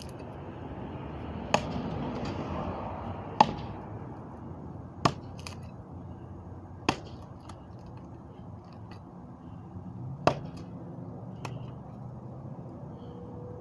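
A series of sharp knocks or whacks, about one every two seconds with one longer gap, over a steady background hiss.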